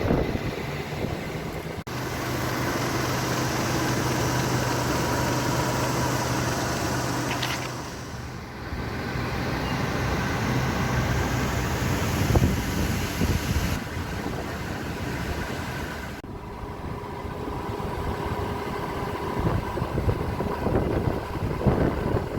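2009 Nissan Altima running, with a steady low engine hum and wind noise, heard in several short edited shots that cut in and out abruptly.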